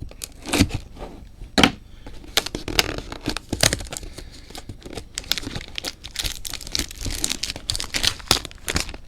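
A trading-card box and its wrapping being torn open and handled: a run of irregular sharp rips and crinkles.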